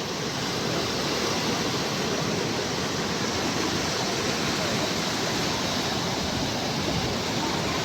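Sea surf washing ashore: a steady, even rush of water with no single wave standing out.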